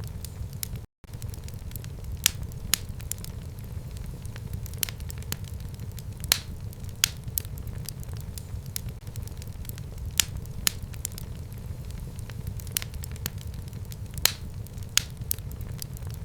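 Fire burning in a fireplace, with a steady low rumble and irregular sharp crackles and pops. The sound cuts out for an instant about a second in.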